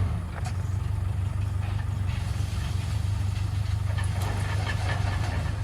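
Machinery running with a steady low drone and a fast even pulse, like an idling engine.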